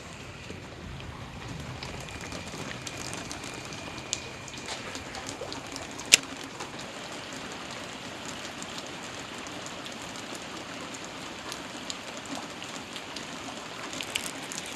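Steady rain falling, with scattered drops ticking close by and one sharp, loud click about six seconds in.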